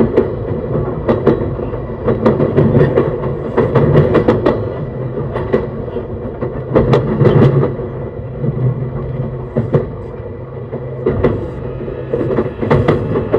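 E131 series electric train running on the track, a continuous rumble broken by many irregular sharp clicks of the wheels crossing rail joints and pointwork.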